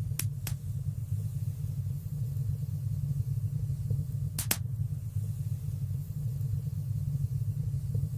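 Fire burning in a fireplace: a steady low rumble of flames with a few sharp crackling pops, two near the start and a quick double pop a little past the middle.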